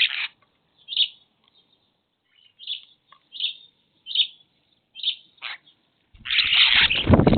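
Bird giving short high chirps, about one every three-quarters of a second, then a louder, longer burst of sound that reaches much lower, about a second before the end.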